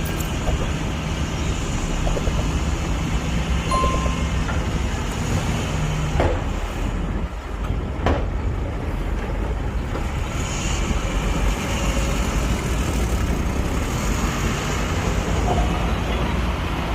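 Heavy diesel engines of earthmoving machines running with a steady low rumble; a steady low hum drops out about six seconds in, and a few short knocks sound.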